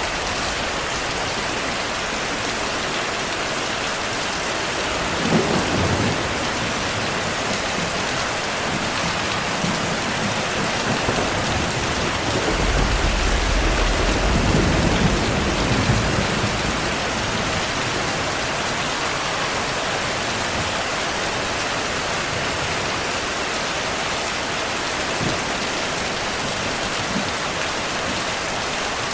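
Steady rainfall with thunder rolling twice: a short rumble about five seconds in and a longer, louder roll around the middle.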